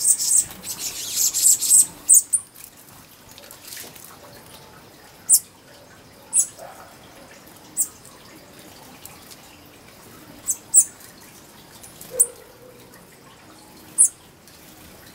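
Small bird giving short, very high chirps, one every second or two, about nine in all. A burst of hissing noise covers the first two seconds.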